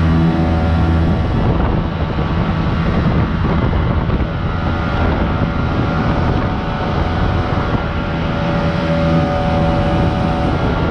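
Jet boat engine running steadily underway, with rushing wind and water noise that partly covers the engine's tone for several seconds in the middle.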